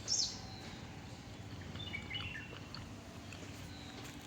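Birds calling: a sharp, high chirp that falls in pitch right at the start, then a few short chirps about two seconds in, over a steady low background hum.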